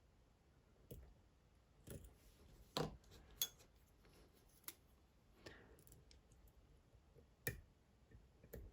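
Scattered small metallic clicks and light scrapes of lock picks and a tension tool working inside a Dom IX Twinstar lock cylinder as it is picked open, with a few sharper clicks among faint, quiet handling.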